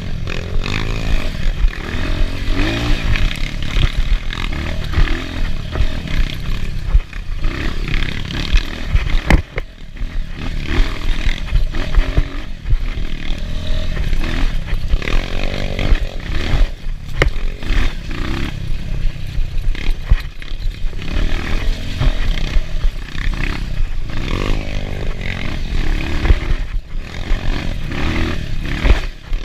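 Enduro motorcycle engine revving up and down as it is ridden off-road, the pitch rising and falling every second or two, with scattered knocks and rattles.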